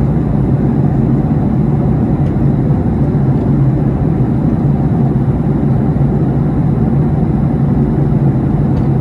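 Steady loud drone inside a jet airliner's cabin in flight: engine and airflow noise with a deep, even hum and no change in pitch.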